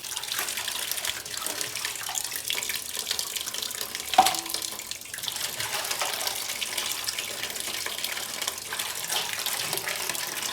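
Tap water running steadily into a sink as raw mutton is washed by hand, with one short knock about four seconds in.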